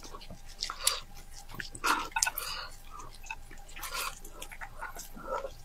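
Wet chewing and lip-smacking from eating braised pig's head meat, with a few irregular sticky clicks and squelches.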